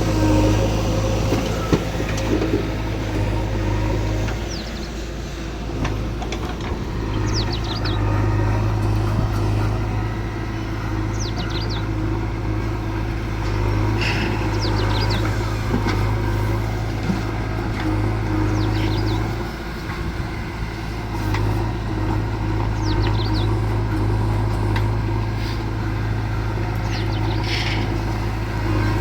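Heavy diesel engine running steadily under load, easing off briefly twice. Birds chirp now and then over it.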